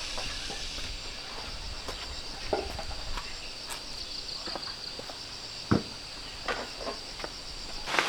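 Steady high, pulsing chirring of insects, with scattered footsteps and light knocks and one sharper thump a little past halfway.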